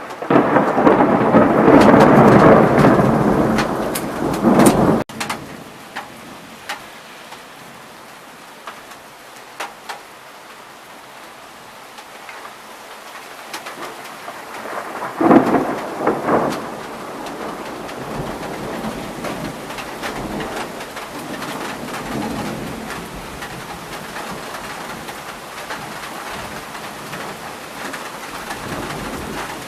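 Thunder rumbling loudly for about five seconds and stopping abruptly, then steady rain, with a second sharp thunderclap and rumble about fifteen seconds in.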